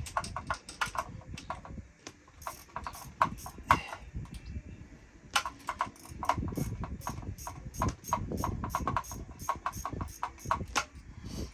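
Socket ratchet wrench clicking in several quick runs, backing a nut off a bolt on a boat engine.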